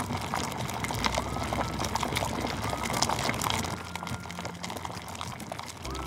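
Liquid sound with dense fine crackling, like water bubbling or being poured, somewhat quieter from a little past halfway through.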